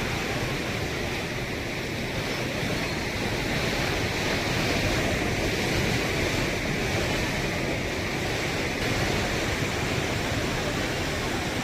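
Heavy rain falling, a steady, even hiss without a break.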